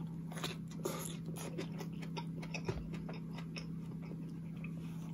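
Close-miked chewing of a bite of a crumb-coated Subway Double Meat BMT sandwich: many small crunches and wet clicks, over a steady low hum.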